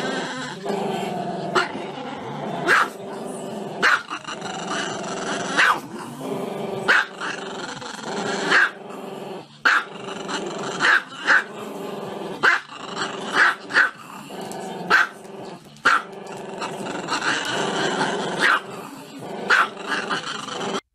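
Small black-and-tan dog, head raised, growling without a break and letting out sharp barks about once a second.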